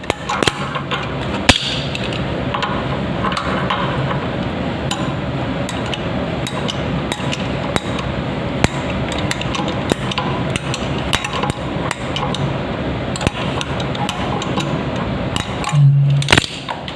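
Many quick clicks and taps of metal and plastic plumbing fittings and tools being handled while a toilet inlet valve is refitted, over a steady noisy background with a faint low hum.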